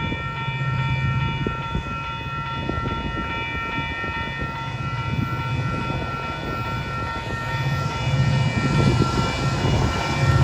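Approaching freight train led by EMD SD70-series diesel locomotives, their low engine rumble growing louder in the last couple of seconds. Steady high-pitched ringing tones sound throughout.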